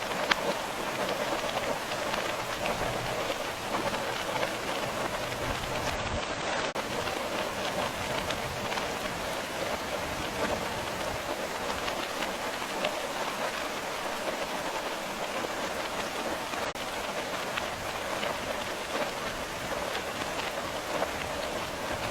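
Steady rain falling, an even patter of many small drops hitting a surface.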